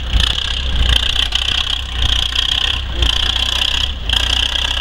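Vintage Oliver 99 pulling tractor's engine running hard under load, steady and loud with brief dips about once a second.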